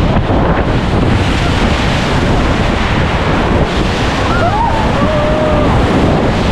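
Rushing white water under a paddled river raft, with wind buffeting the microphone: a steady, loud rush.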